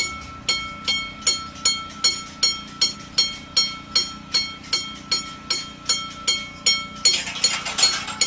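A bell struck over and over at a steady pace, a little more than twice a second, each stroke ringing on, over a steady low hum, with a short hiss near the end.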